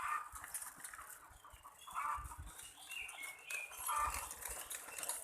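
Birds calling: short whistled notes with small pitch slides, and a lower, harsher call about every two seconds.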